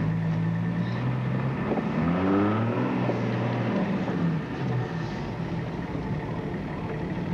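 Car engines running, one of them revving up briefly about two seconds in and then dropping back.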